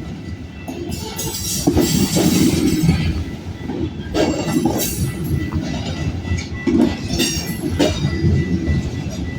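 Freight train cars rolling past at close range: a steady low rumble of wheels on rail, broken by irregular clanks and knocks, with a faint wheel squeal.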